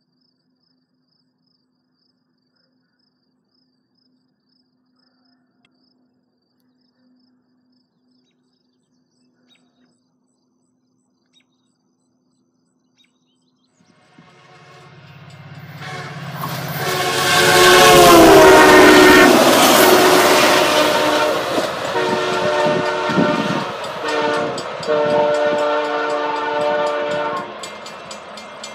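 Near silence with faint insect chirping for the first half, then a VIA Rail passenger train approaches and passes, its rumble building quickly to loud. Its horn sounds through the pass, dropping in pitch as the train goes by, followed by two more steady blasts.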